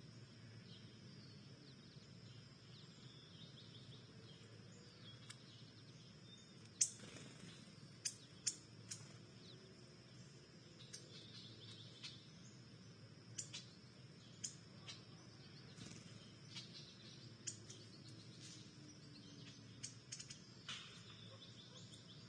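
Scattered short bird chirps, about a dozen single notes from several seconds in onward, over a faint outdoor background.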